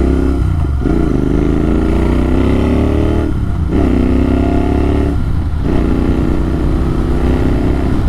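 Motorcycle engine running loud through an AEW TE102 aftermarket exhaust with the dB killer removed, pulling through the gears: the pitch climbs, then cuts out briefly at each of three gear changes and picks up lower again.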